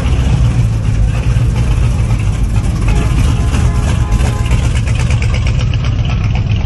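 A car engine running at a steady idle, a loud, even low rumble.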